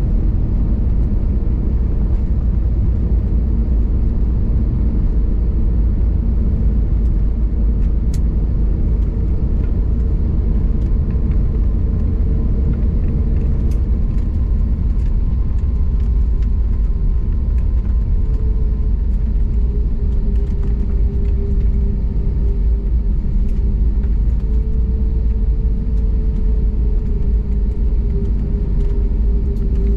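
Airbus A321neo cabin noise: a steady low rumble with an engine hum held at one pitch, which dips slightly about two-thirds of the way through and then returns.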